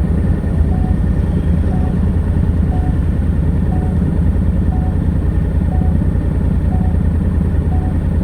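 Honda NC700X's 670 cc parallel-twin engine with stock exhaust running steadily at an even speed. A short faint beep repeats about once a second over it.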